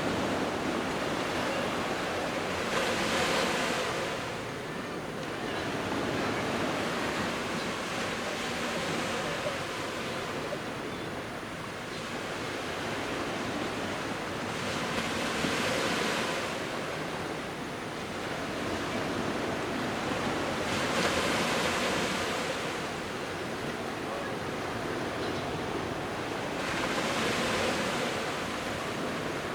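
Sea waves breaking on the shore, with a surge of surf every five to six seconds over a steady wash, and some wind on the microphone.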